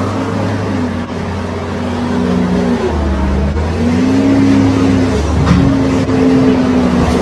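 A car engine running, its pitch shifting up and down as it revs, over steady road noise.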